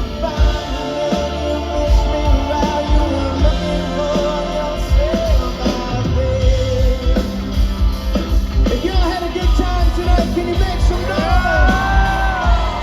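Live rock band playing, with drums and bass pulsing underneath and a lead line that slides and bends in pitch, most clearly in the second half.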